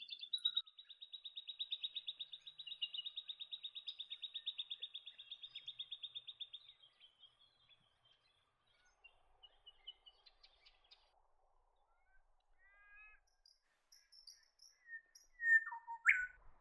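White-winged triller singing: a long, rapid, even trill of many notes lasting about seven seconds, followed by scattered short calls and a sharp rising note near the end.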